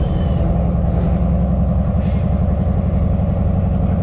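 A car's engine and exhaust running loud and steady, a continuous low, rapidly pulsing drone with no change in pitch.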